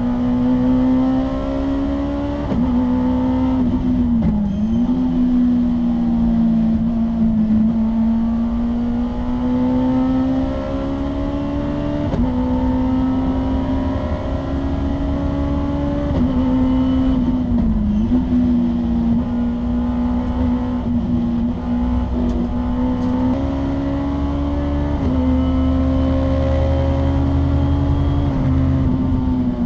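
Honda S2000's 2.0-litre four-cylinder race engine, heard from inside the cabin, running hard at high revs around the circuit. The loud, steady engine note dips and steps several times as the driver shifts up from third to fifth gear.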